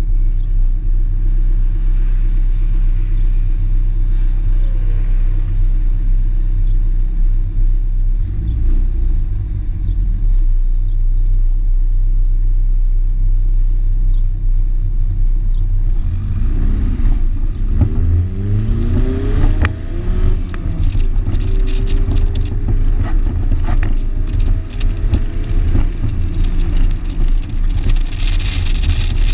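1987 Shelby GLHS's turbocharged 2.2-litre four-cylinder engine running under load on track, a steady low drone for the first half. About halfway through its pitch starts rising and falling repeatedly as it revs up and changes speed.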